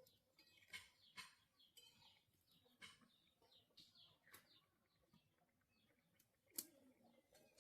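Faint birds chirping, many short quick falling calls, with a few sharp clicks scattered through; the loudest click comes near the end.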